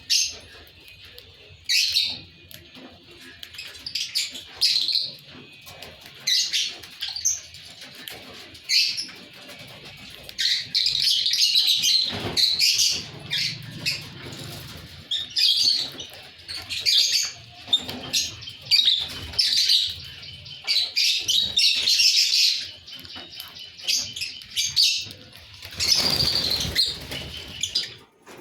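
Lutino Fisher's lovebirds chirping: shrill, high-pitched calls in short repeated bursts, thickening into continuous chatter about a third of the way in and again later.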